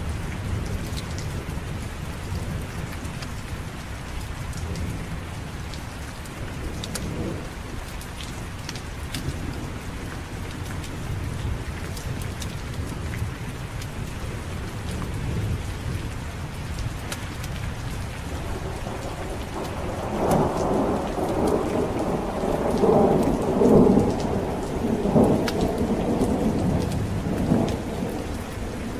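Steady heavy rain under a low thunder rumble, with a long roll of thunder swelling about two-thirds of the way through and peaking near the end.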